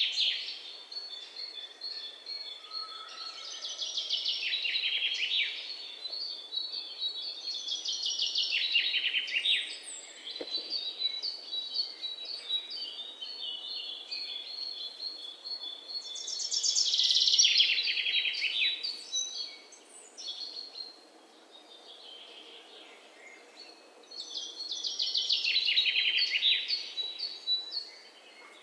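Birds chirping, with bursts of rapid high trills that come and go every several seconds between steadier thin calls.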